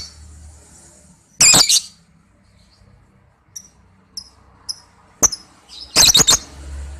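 Lovebird calling in short, shrill chirps. There is a loud burst of calls about a second and a half in, a few brief high chirps in the middle, and a quick run of calls near the end.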